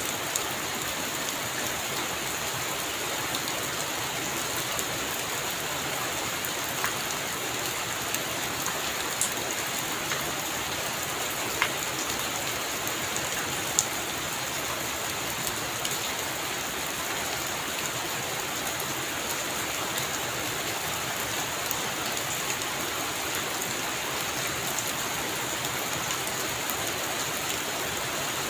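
Heavy rain falling steadily, with a few louder single drops striking close by now and then.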